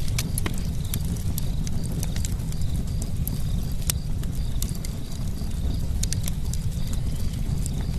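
Campfire burning, with sharp, irregular crackles and pops from the wood over a steady low rumble of the flames.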